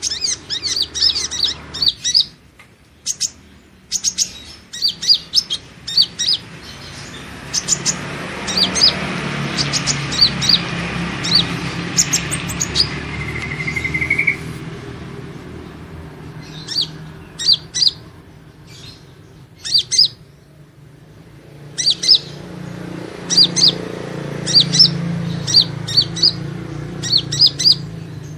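Kolibri ninja sunbird calling: bursts of rapid, high, sharp chirps with short pauses between them, over a faint low hum.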